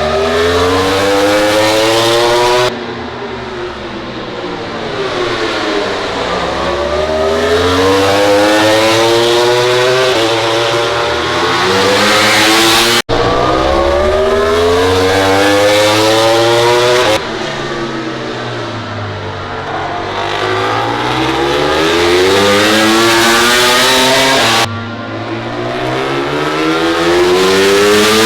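MotoGP racing motorcycles' high-revving engines. The pitch climbs in repeated steps as they accelerate and upshift, then sweeps down as bikes brake and go by. The sound changes abruptly several times, and drops out for an instant about halfway through.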